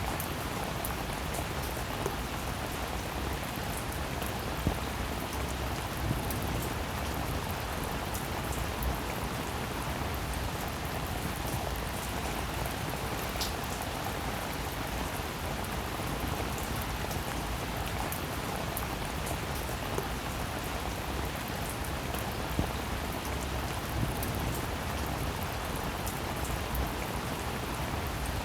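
Rain falling steadily, with a scattering of louder individual drops striking close by.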